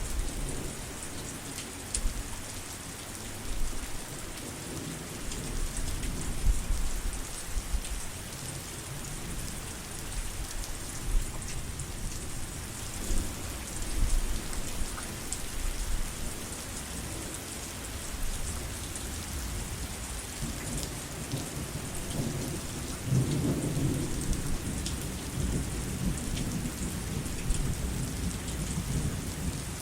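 Steady heavy rain falling, with the patter of individual drops, under low rolling thunder that swells about three quarters of the way through.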